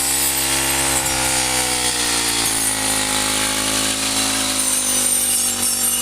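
Small petrol engine of a rice-cutting machine running steadily at high revs, its pitch sagging slowly around the middle and picking up again.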